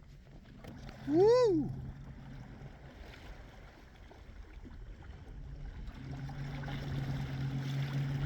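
A man whoops 'woo!' about a second in, over the steady low hum of a Torqeedo Ultralight 1100 W electric kayak motor and water noise. The hum drops away after the whoop and comes back louder for the last couple of seconds.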